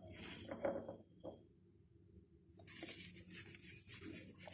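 Light rustling and pattering of hands handling food: seasoning sprinkled and sliced vegetables being laid in a cooking pot. A short rustle at the start, a lull, then denser rustling with many small ticks from a little past halfway.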